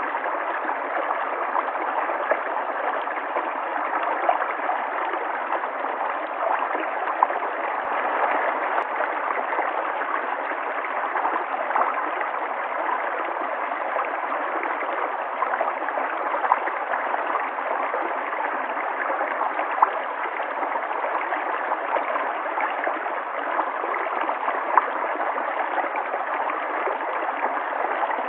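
River water flowing steadily, with a few brief louder splashes standing out from the constant rush.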